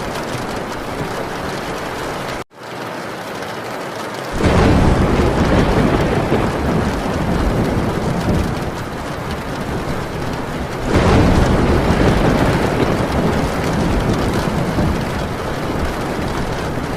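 Heavy rain falling on a tin roof, with thunder rolling in twice: suddenly about four seconds in and again about eleven seconds in, each time slowly dying away. The sound cuts out for an instant about two and a half seconds in.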